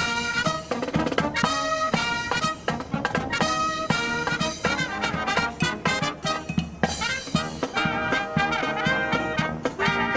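Brass marching band playing an upbeat Dixieland-style jazz march: trumpets and trombones in punchy chord stabs over snare and bass drum.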